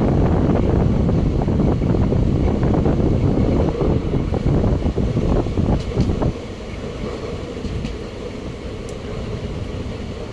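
A train passing close by on the adjacent track, a loud rumble with rapid wheel clatter that cuts off suddenly about six seconds in, leaving a quieter steady rail rumble.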